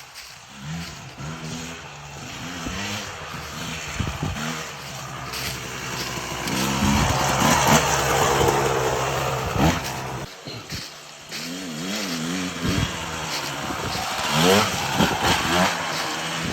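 Yamaha YZ144 two-stroke dirt bike engine revving up and down again and again under hard riding. It peaks loudest about 7 to 9 seconds in, drops off briefly around 10 seconds, then rises and falls again.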